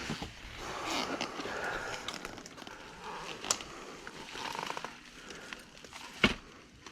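Rustling and crackling noises, with sharp snaps about three and a half seconds in and again near the end, the second one the loudest.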